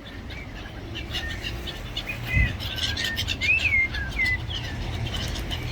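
Seagulls calling, many short overlapping calls, some bending up and down in pitch, busiest in the middle, over a steady low rumble.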